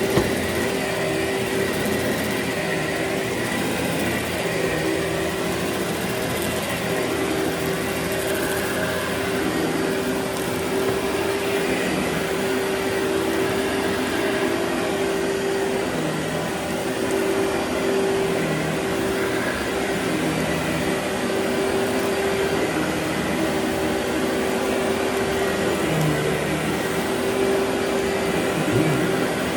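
Vacuum cleaner running steadily while vacuuming a very dirty carpet, its motor giving a constant whine over a rush of air.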